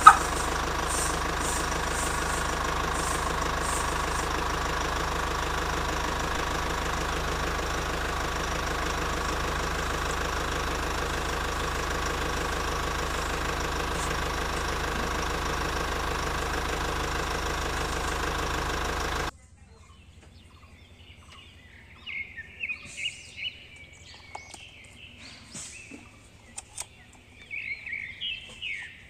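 Small motor of a miniature water pump running steadily with an even rhythmic hum, cutting off abruptly about two-thirds of the way through. After that, birds chirp faintly.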